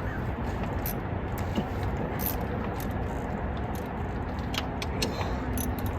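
Scattered light metallic clicks and small rattles of hand tools and parts being handled in an engine bay, over a steady background hiss.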